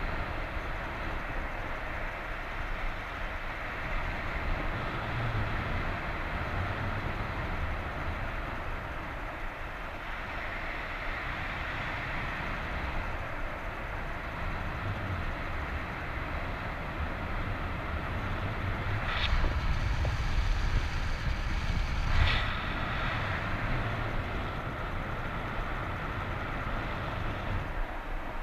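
Wind rushing over the microphone in flight, with a low buffeting rumble. Two short sharp knocks or rustles come about three seconds apart, about two-thirds of the way in.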